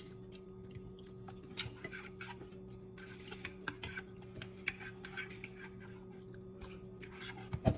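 Close-up eating sounds as a person eats spicy ramen noodles: many soft, irregular mouth clicks and smacks while chewing, over a steady low hum.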